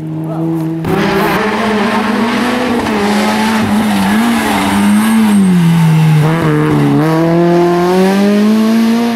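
Rally car engine at high revs, its pitch rising and falling with throttle lifts and gear changes, fuller and louder from about a second in.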